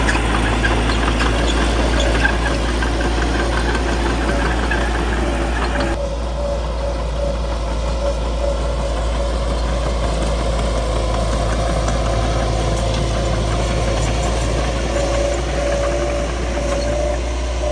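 Caterpillar D3C bulldozer's diesel engine running steadily. The sound changes abruptly about six seconds in, as at a cut.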